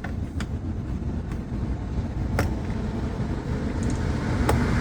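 Steady low rumble with four short, sharp clicks and taps, as of screws and tools being handled on a car door panel.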